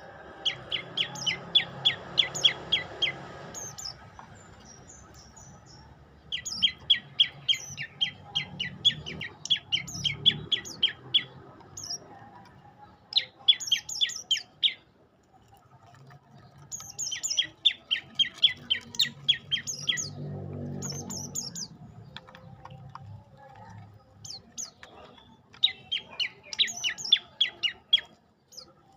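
A prenjak lumut songbird calling in repeated phrases of rapid, high chirping notes, each phrase a few seconds long with short pauses between, about six phrases in all. A faint low hum lies underneath, near the start and again about two-thirds of the way through.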